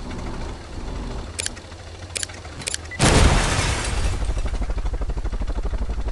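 A vehicle engine with a few sharp clicks, then about halfway through it suddenly starts and runs loudly with a rapid low pulsing.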